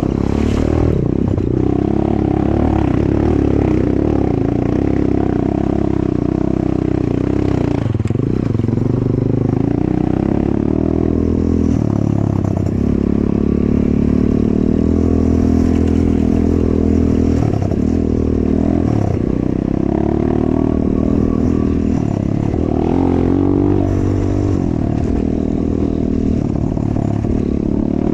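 Enduro motorcycle engine running under load while riding, its pitch rising and falling with the throttle and dipping briefly several times as the throttle is closed and reopened.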